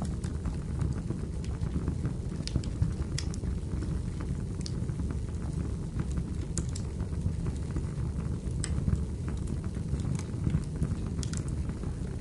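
Wood fire burning in a fireplace: a steady low rumble of flames with scattered sharp crackles and pops from the burning firewood.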